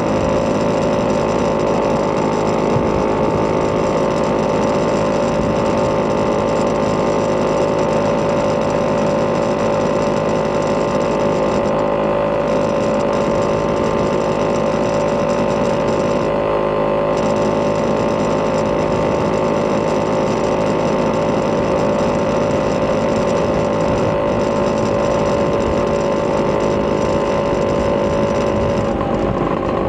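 Vespa PX200's two-stroke single-cylinder engine, bored to 210cc with a Polini kit and breathing through a Malossi expansion chamber exhaust, running at steady revs. Its pitch holds level and shifts just before the end.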